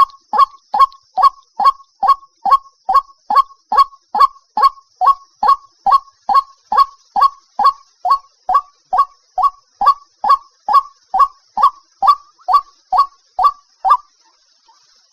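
White-breasted waterhen calling, a monotonous run of short 'kook' notes repeated a little over twice a second, which stop about a second before the end. It is a decoy recording for luring waterhens to a trap.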